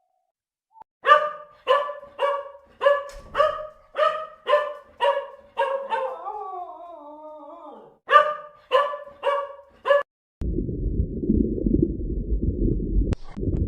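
A dog barking in a steady run of about two barks a second, broken in the middle by a drawn-out falling whine. From about ten seconds in, the barking gives way to a steady low rumbling noise.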